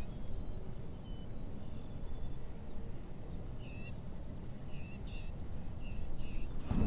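Birds chirping, a string of short chirps in the second half, over a steady low rumble.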